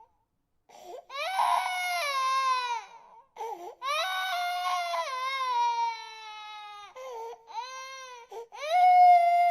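Infant crying hard in long, high-pitched wails that fall in pitch, with short gasps for breath between them. A brief silence comes before the first wail, and the last cry near the end is the loudest.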